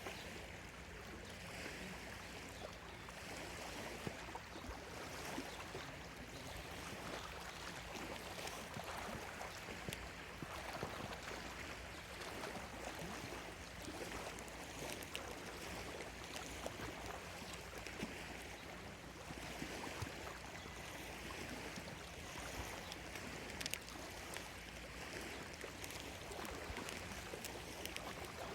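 Small lake waves lapping at the shore: a soft wash that swells and fades every few seconds, with little splashes in between.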